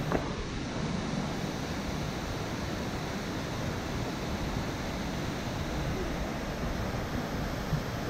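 Steady rushing noise of Nachi Falls, a very tall waterfall, its falling water giving an even, unbroken wash of sound. A brief click right at the start.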